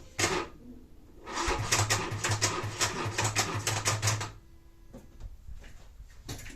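Smart Roadster's starter clicking once, then chattering rapidly for about three seconds with a pulsing low hum, without the engine turning over or catching: the battery is flat.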